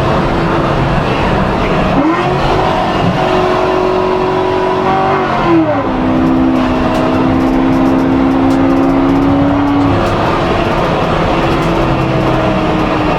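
C7 Corvette V8 engine running under way with a steady drone. Its pitch climbs briefly about two seconds in, drops about five and a half seconds in, then holds steady again.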